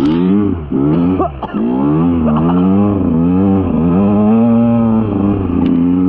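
KTM EXC 125 two-stroke enduro engine revving up and down in a series of quick rises and falls, then holding a steady pitch for the last couple of seconds.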